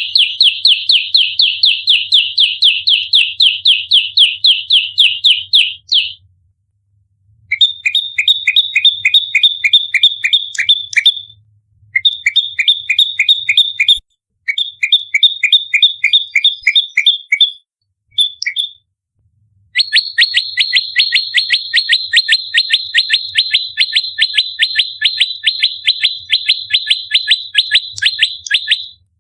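Prenjak lumut songbird giving its rapid 'fighting' call: sharp, high chirps fired in quick runs of about five a second. The runs come in several bursts broken by short pauses, and the longest runs through the last third.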